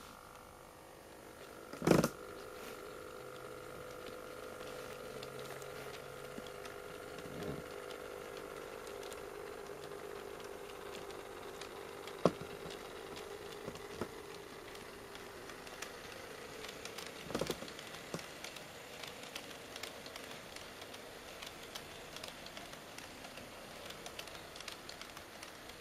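HO-scale model diesel locomotives (a pair of KATO DD51s) running with a train of tank wagons: a steady electric motor whine with the wheels clicking and rattling over the track, and a sharp click about two seconds in.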